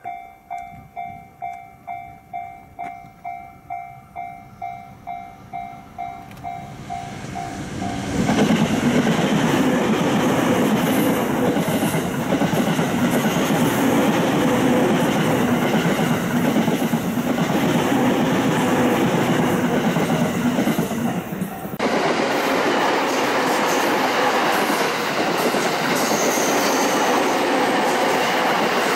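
A level-crossing warning bell rings about twice a second. About eight seconds in, a train arrives and passes close by, loud and steady, with its wheels clacking over the rail joints. About 22 s in the sound changes abruptly.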